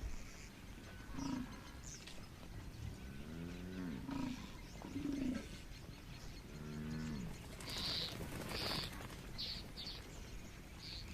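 Large animals calling: several short low grunts and two longer calls that fall in pitch, each about a second long. Near the end comes a run of short, high bird chirps.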